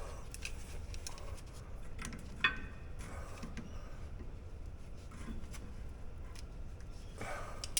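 Small metal clicks and knocks from working a stuck brake caliper glide pin by hand, with one sharper ringing metal clink about two and a half seconds in. The pin is sticky and does not want to move: it is dry and needs grease.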